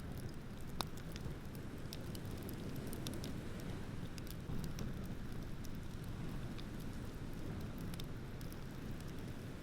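Wood bonfire crackling, with scattered sharp pops over a steady low rushing background; one pop stands out about a second in.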